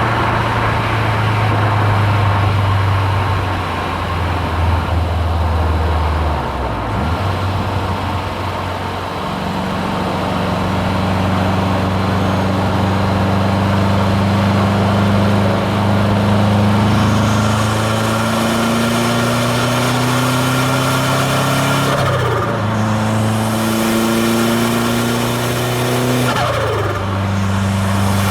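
Subaru WRX STi's turbocharged flat-four accelerating through the gears, its note climbing steadily and dropping sharply at gear changes about 22 and 27 seconds in, with a hiss building over the second half.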